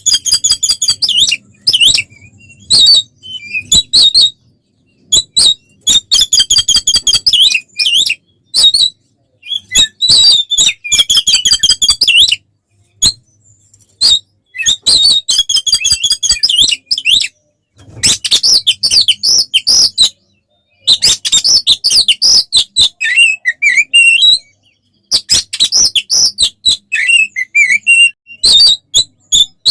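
Oriental magpie-robin (kacer) singing its aggressive fighting song: loud, fast bursts of rapidly repeated high notes and trills, broken by short silent gaps.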